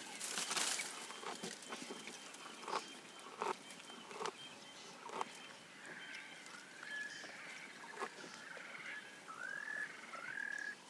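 A giraffe feeding: a crackly rustle at the start, then scattered sharp snaps of leaves and twigs being stripped and chewed. In the second half a bird calls over and over in short rising notes.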